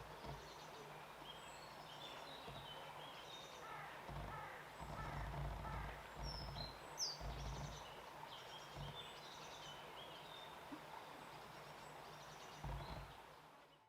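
Small songbirds chirping and twittering faintly over a low outdoor hiss, with a few brief low rumbles.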